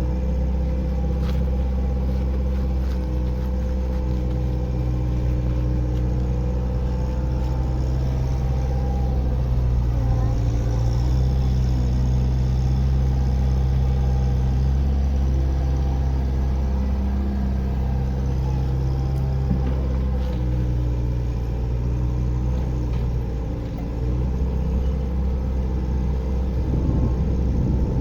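Kobelco mini excavator's diesel engine running steadily while digging soil, its note shifting slightly up and down as the hydraulics take load.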